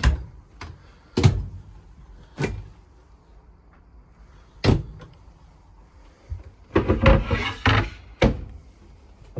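Travel-trailer kitchen cabinet doors and drawers being opened and shut by hand: a series of sharp knocks and clacks, with a longer rattling clatter about seven seconds in.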